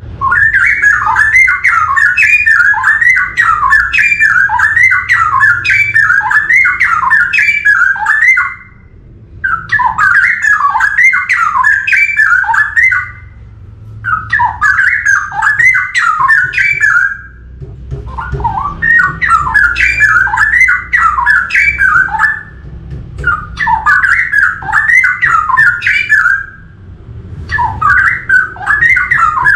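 Straw-headed bulbul (cucak rowo) singing: six loud bouts of fast warbled notes that rise and fall, each lasting several seconds, with pauses of about a second between them. A faint low hum lies underneath.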